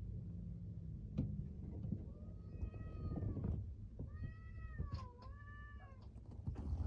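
Domestic cat yowling: three long drawn-out calls in a row, starting about two seconds in, the pitch sagging in the middle of the second one. Territorial yowling at an intruding neighbourhood cat during a standoff.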